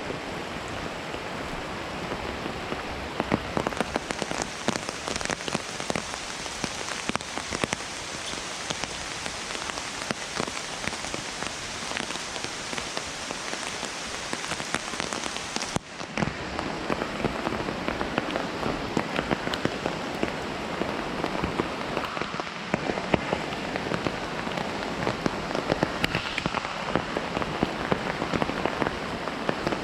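Heavy rain falling, a dense steady hiss thick with sharp individual drop hits; it breaks off for an instant about halfway, then carries on.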